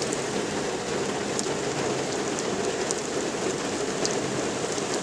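Steady rain falling, with a few separate drop ticks standing out from the patter.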